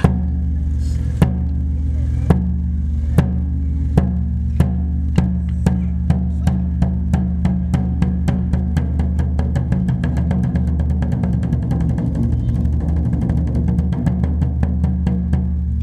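Japanese taiko drums struck in a steadily accelerating run: single strikes about a second apart at first, quickening to several per second, over a steady low hum.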